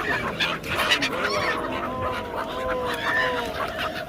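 A flock of water birds calling over one another: many short, harsh overlapping calls, joined from about a second in by a string of drawn-out, arching cries.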